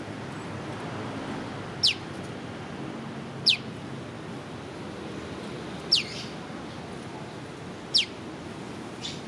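Prenjak lumut giving its 'piw' call: four short, sharp whistles, each sliding steeply down in pitch, spaced about two seconds apart, with a fainter fifth near the end, over a steady low background hiss.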